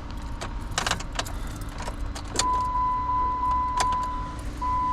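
Car keys jangling and clicking as the key goes into the ignition, then a steady high-pitched warning tone from the car starts about halfway through and holds, with a couple of brief dips.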